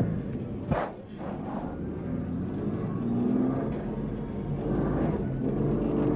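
A 4x4's engine running under load, heard from inside the cabin, its pitch rising and falling as it revs over the sand dunes. A sharp knock cuts in under a second in.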